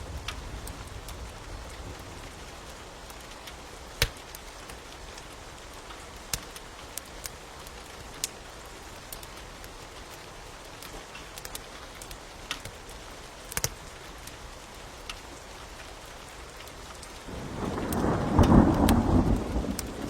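Steady rain with scattered sharp pops and crackles of a wood fire, two of them louder, and a roll of thunder rumbling in about three seconds before the end, the loudest sound.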